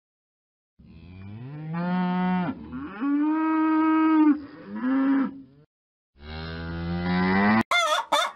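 Cow mooing: one long moo that rises and then holds steady, ending in a shorter low call, then after a short pause a second moo. A sharp click comes just before the end.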